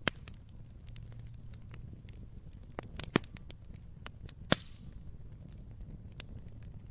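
Crackling fire: scattered small ticks over a low steady rumble, with a few sharp pops. The loudest pops come about three and four and a half seconds in.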